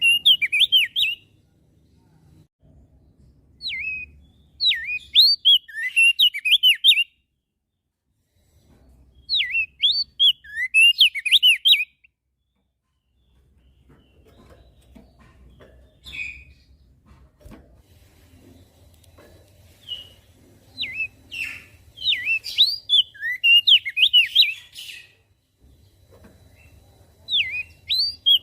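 Crested white-eye (opior jambul) singing in repeated bursts of rapid, high chirping and whistled notes, each burst lasting one to three seconds, with pauses of a few seconds between them.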